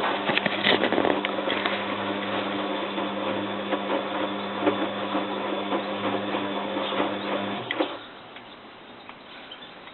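Bosch WFF2000 front-loading washing machine in its main wash, its motor turning the drum with a steady hum and the wash tumbling. The motor stops about three-quarters of the way through, leaving a much quieter background with a few light clicks as the drum pauses between turns.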